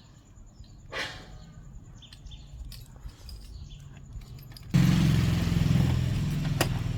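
A small engine starts running suddenly and loudly about two-thirds of the way through, after a quiet stretch with a few faint bird chirps.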